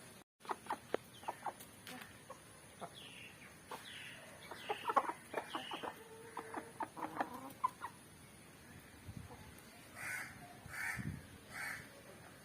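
Aseel chickens clucking, with a run of short sharp clicks through the first half and three short calls near the end.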